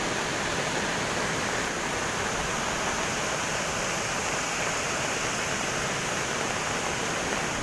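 Steady rush of fast-flowing floodwater from an overflowing river: an even, unbroken noise.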